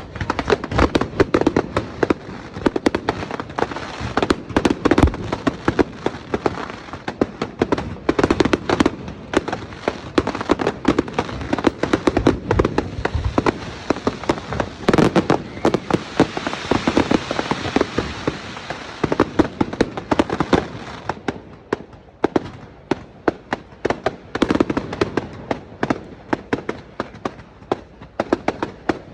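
Fireworks going off in a rapid, continuous barrage of bangs and crackles, with a hissing, crackling stretch around the middle before the bangs thin out near the end.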